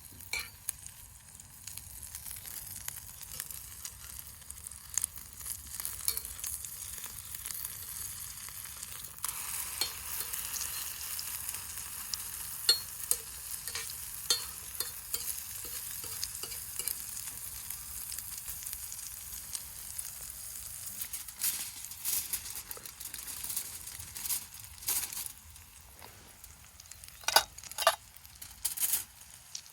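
Food sizzling as it fries, a steady hiss full of small pops, getting louder about nine seconds in and easing off near the end, where a few sharp clicks stand out.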